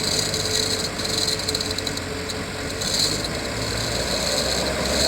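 Dump truck engine running steadily under a wash of mechanical noise, while the stuck truck is hauled out with a chain hoist.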